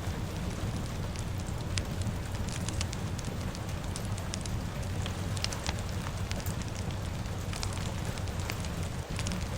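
Fire crackling, with many small irregular pops, over a steady bed of rain and a low rumble.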